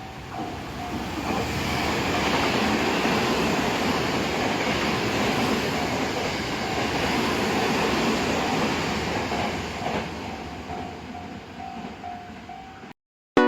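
Recorded sound of a Tokyo Metro 15000 series electric train passing over a level crossing, its running noise swelling and then fading. A Japanese level-crossing bell dings rapidly at the start and again as the train fades, and the sound cuts off suddenly near the end.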